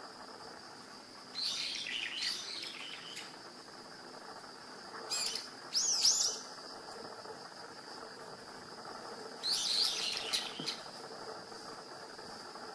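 Small songbirds chirping in three short bouts, over a steady high-pitched insect trill.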